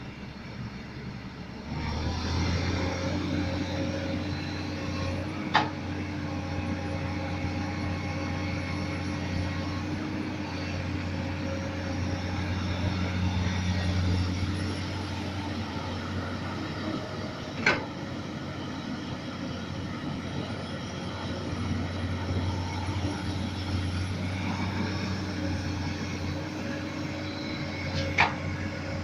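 Komatsu PC200 excavator's diesel engine running steadily under work, getting louder about two seconds in. Three sharp knocks stand out, spaced roughly ten seconds apart.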